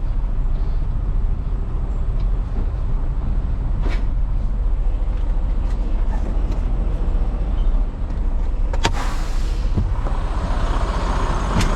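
Semi truck's diesel engine running steadily, with a few sharp clicks and a short hiss about nine seconds in.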